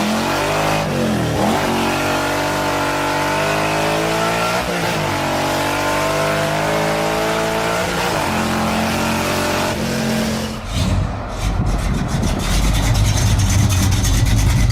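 Muscle car engine revving, its pitch rising and falling several times. About ten seconds in it changes to a low, rough, pulsing rumble.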